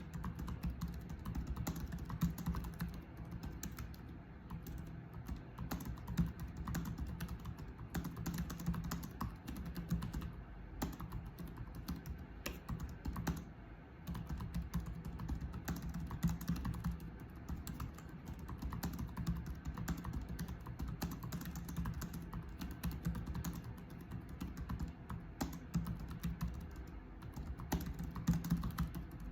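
Continuous typing on a computer keyboard: a steady, irregular stream of key clicks, with a brief lull about halfway through.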